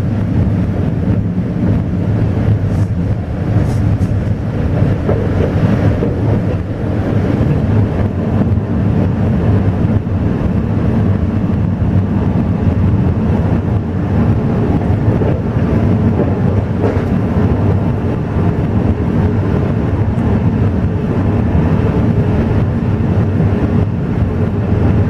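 Steady low rumble of an Alishan Forest Railway train carriage running along the line, heard from inside the car.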